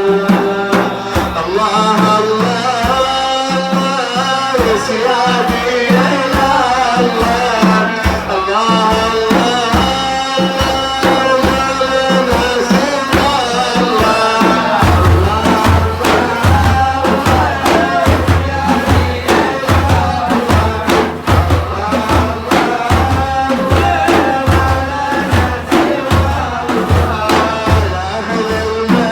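Sufi devotional music: hand drums beat a steady rhythm under a wavering melodic line. About halfway through, the low drum beats become much heavier.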